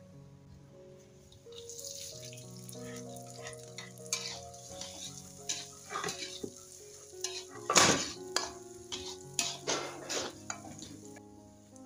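Sliced shallots and garlic sizzling in hot oil in a wok, starting about two seconds in, while a spatula stirring them scrapes and clanks against the pan, the loudest clank a little past the middle.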